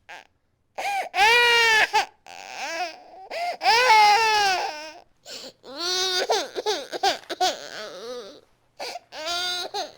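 Baby crying in a rage: loud wavering wails in several bursts, the two loudest about a second in and near the middle, with short silent catches of breath between them.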